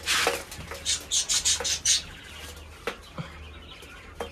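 Quail giving a quick run of short, high chirps, with a rustle at the start and a couple of light knocks later on.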